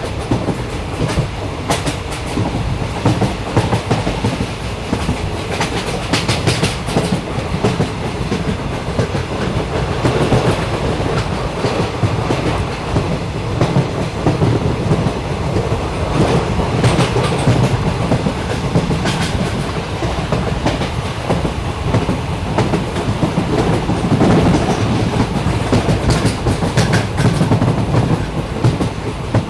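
Train running, heard from on board: a steady rumble with irregular clicks and clatter of the wheels over the rails.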